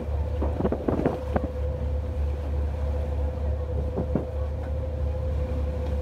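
Whale-watching boat's engine running at a steady drone with a constant hum, wind buffeting the microphone. A few brief knocks come in the first second and a half and once about four seconds in.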